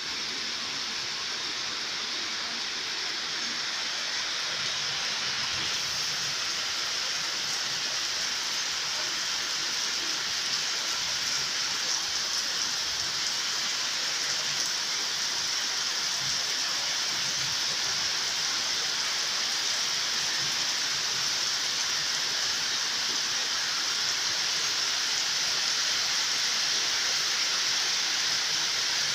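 Heavy rain falling steadily, an even, dense hiss that grows slightly louder over the course of the downpour.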